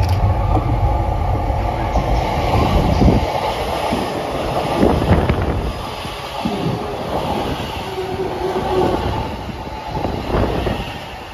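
JR East E233-1000 series electric commuter train passing close by as it slows for the station. The wheels and bogies rumble heavily for the first three seconds, with knocks over rail joints as the cars pass and a short steady tone about eight seconds in.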